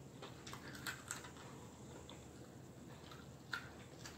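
Close-miked chewing of fried fish: soft mouth sounds with a handful of faint crunchy clicks, the sharpest about three and a half seconds in.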